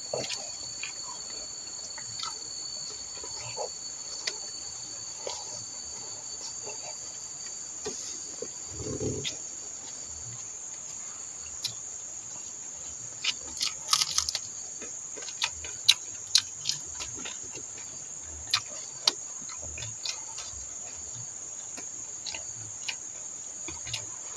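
A steady, high-pitched insect chorus drones on, with a second, lower insect tone that fades out about a third of the way through. Scattered short clicks and taps sound over it, most of them in a cluster just past the middle.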